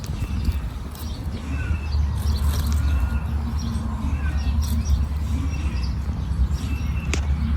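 Birds chirping in short calls over a steady low rumble, with a few sharp clicks.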